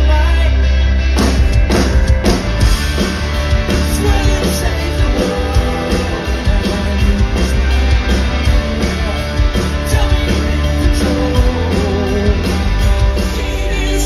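Rock band playing live, with drums, heavy bass and a singing voice.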